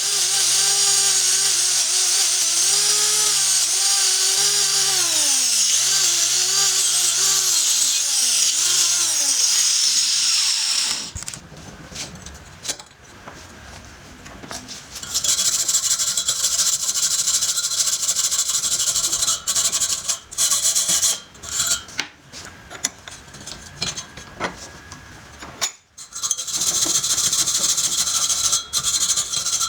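A handheld power tool runs under changing load, its motor pitch dipping and rising, then spins down and stops about ten seconds in. After a short quieter gap, a harsh high scraping noise starts and stops repeatedly to the end, like metal being abraded.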